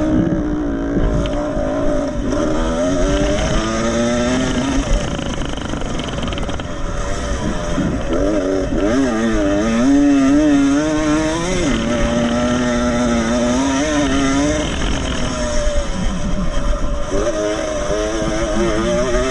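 A 125 cc motocross motorcycle's engine running hard, its pitch rising and falling continually as the throttle is worked and gears change, with a wavering stretch in the middle, a drop about twelve seconds in and a climb again near the end.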